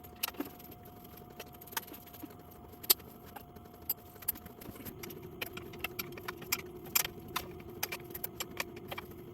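Scattered irregular metallic clicks and clinks of hands and tools working around a small Briggs & Stratton engine's shroud, clearing out a mouse nest packed inside.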